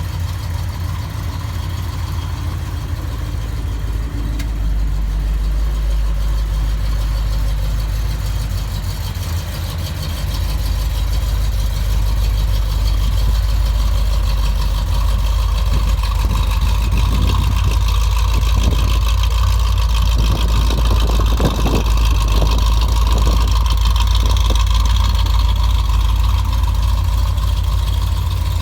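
1979 Chevrolet Corvette C3's small-block V8 idling steadily through its exhaust, a deep continuous rumble that gets somewhat louder about a third of the way through.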